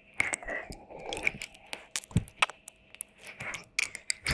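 Wet mouth sounds made close to an ASMR microphone: irregular sharp smacking clicks with soft wet licking noise between them.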